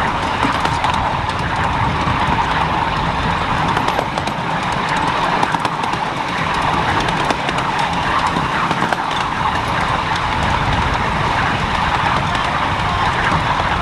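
Miniature railway train running: a steady, loud rumble with many fast, irregular clicks of wheels on track.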